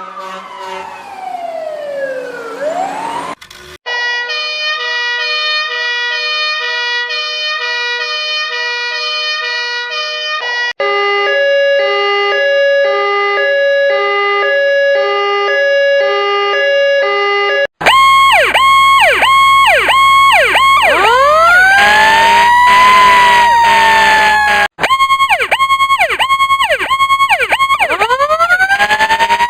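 A string of different emergency vehicle sirens cut one after another. First a siren wailing down in pitch, then two different two-tone sirens alternating between a high and a low note, then an electronic siren with fast repeated up-and-down sweeps under a slower rising-and-falling wail.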